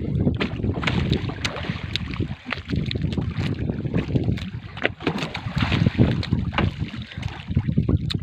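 Wind buffeting the microphone over water slapping around a small boat, with irregular sharp knocks and clicks throughout.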